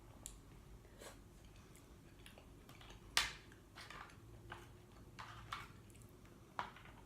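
Close-up eating sounds from cooked apple snails: irregular wet smacks and sharp clicks of chewing and handling the shells, the loudest a sharp click about three seconds in.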